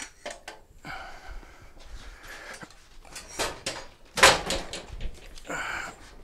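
Irregular knocks and clunks from a heavy mobility scooter being handled and shifted on a lift, with the loudest clunk about four seconds in.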